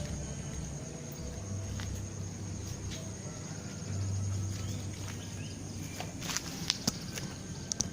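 Rural outdoor ambience: a steady high-pitched insect trill over a low, steady hum, with a few sharp clicks in the last two seconds.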